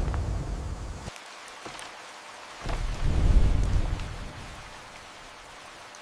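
Steady rain hissing, with two swells of deep low rumble: one fading out about a second in, and a louder one rising and dying away between about three and four and a half seconds in.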